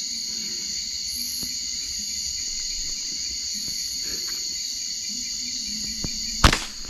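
Steady, high-pitched chorus of night insects such as crickets, with one sharp snap near the end.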